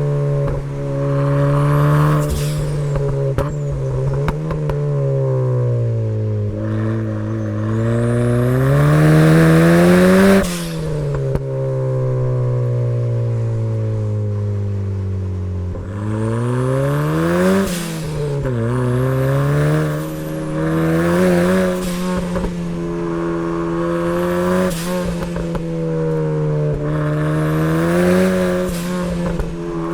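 Turbocharged Mazda MX-5 Miata engine, fitted with a Pulsar GTTX2860 turbo, revving hard and dropping back again and again through gear changes and lifts on a hill climb. Its pitch climbs for several seconds at a time, then falls, and at one point about ten seconds in it drops off sharply.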